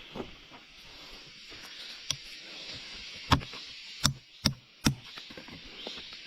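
A series of about six sharp knocks, irregularly spaced, the loudest a little over three seconds in, over a steady high hiss.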